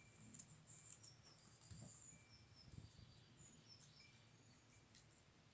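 Near silence, with faint high bird chirps and short whistled calls scattered through it.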